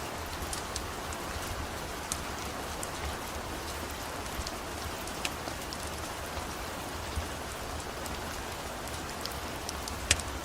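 Steady rain falling, with scattered sharp crackles and pops from a wood-burning fire; one pop near the end is louder.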